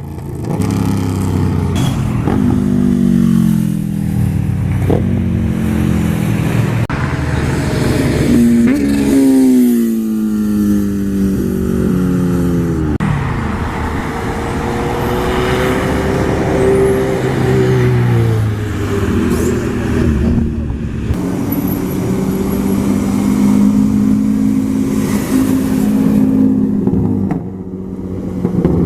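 Car engines running and revving, their pitch climbing as they accelerate and dropping away, with steadier engine notes in between.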